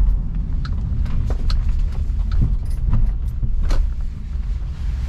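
Car in motion, heard from inside: a steady low road and engine rumble with scattered light clicks and rattles at irregular moments, the sharpest just under four seconds in.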